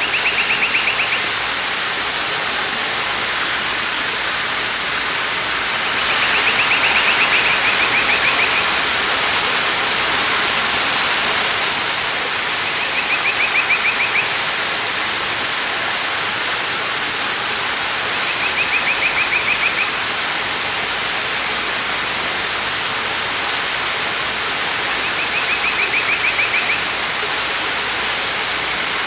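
Waterfall rushing steadily. A high, rapid trill rises over it five times, roughly every six seconds, each lasting one to two seconds.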